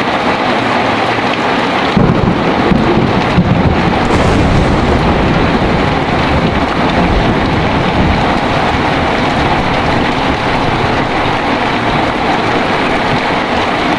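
Heavy rain falling steadily, with a clap of thunder about two seconds in that rumbles on for several seconds and slowly fades.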